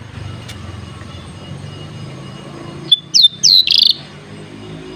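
Horsfield's bush lark (Javan branjangan) singing a short loud phrase about three seconds in: a sharp chirp, a few quick down-sliding whistled notes, then a fast rattling trill.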